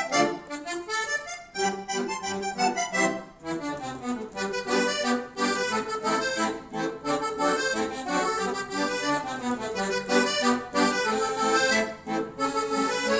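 Two accordions playing a lively duet in quick, short, separate notes, the melody over a lower accompaniment line.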